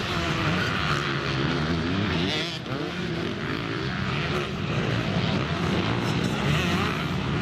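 Motocross bike engines running hard together, their pitches overlapping and rising and falling as the throttles open and close.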